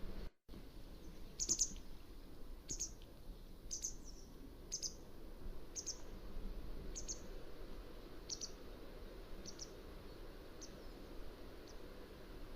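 Mountain wagtail calling: a series of short, high chirps about once a second, growing fainter toward the end.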